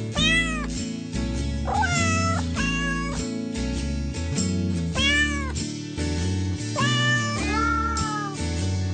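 A cat meowing again and again, about six rising-then-falling meows each under a second long, over background music with a steady bass line.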